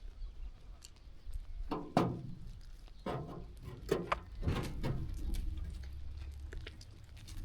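Sheep grazing and shuffling about close by, with four short, louder bursts of rustling and hoof movement about two, three, four and four and a half seconds in, over a steady low rumble.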